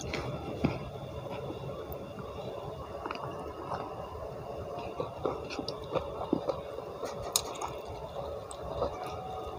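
Close-up wet chewing and mouth sounds of someone eating rice with stir-fried green beans and petai by hand, with small smacks and clicks scattered through.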